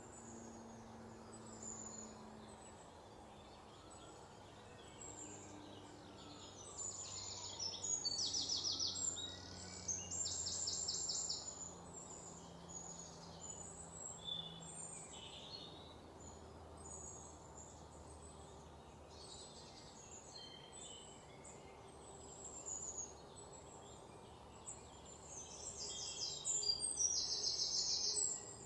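Birds chirping with many short high calls, and a fast high trill that comes in several spells, loudest about eight to eleven seconds in and again near the end, over faint background noise.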